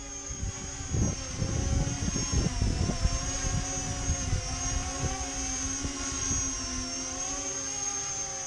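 E-flite Convergence VTOL RC plane hovering: its three electric motors and propellers make a steady whine with a high-pitched tone, wavering slightly in pitch as the throttle corrects. Strong wind gusts buffet the microphone as low rumbles, heaviest in the first few seconds.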